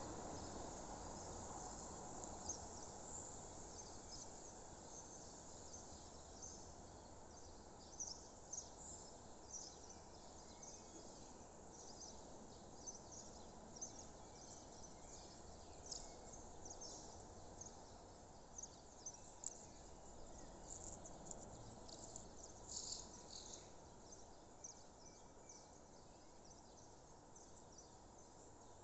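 Faint natural ambience of birds chirping: many short, high chirps scattered irregularly, thickest in the middle, over a soft low background noise that slowly fades.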